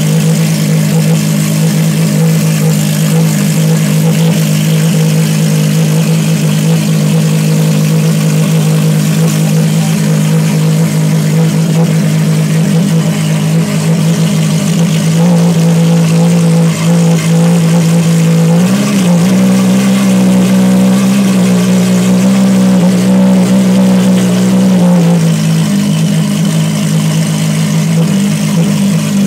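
Ferrari FXX's V12 engine running loud and steady at a constant speed. A little past halfway it is blipped and then held slightly higher for several seconds before dropping back to its earlier steady note.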